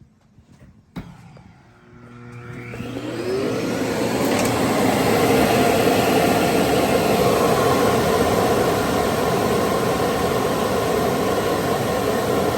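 AIRROBO T10+ self-empty base's suction motor kicking on with a click, spinning up with a rising whine over about two seconds, then running loud and steady as it sucks the dust out of the robot vacuum's bin.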